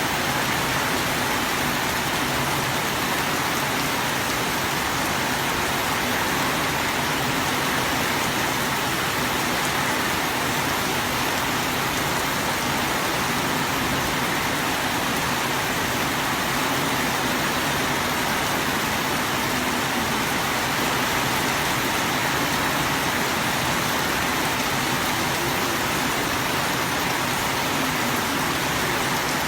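Heavy rain falling steadily, a dense even hiss of rain on surfaces that holds at one level throughout.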